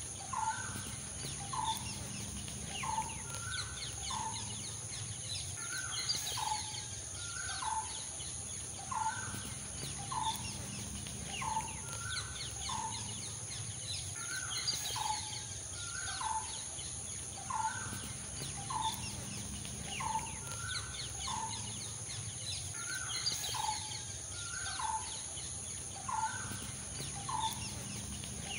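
A bird calling over and over, short falling notes about once a second, over a steady background hiss.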